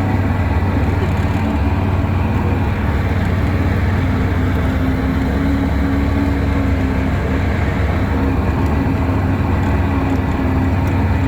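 Twin two-stroke outboard jet motors on a jon boat running steadily under way, a constant engine note with no change in speed.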